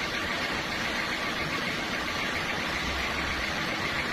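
Sawmill machinery running steadily, a constant engine-like drone with no breaks or changes.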